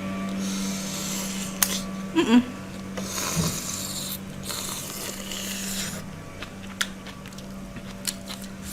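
Close-up eating sounds: crunching and chewing of grilled shrimp, with scattered sharp clicks and a brief vocal sound about two seconds in. A steady low hum runs underneath.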